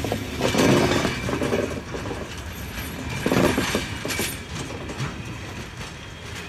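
Railway train running on track: a steady rolling rumble with clanks and rattles, louder about half a second in and again about three seconds in.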